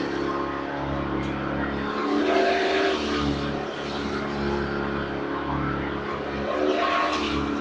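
Hoover RS upright vacuum cleaner running: a steady motor hum and whine under a rushing airflow as it sucks up Christmas tree needles and branch pieces. The rushing swells about two and a half seconds in and again near the end, with the motor's pitch shifting as the load changes.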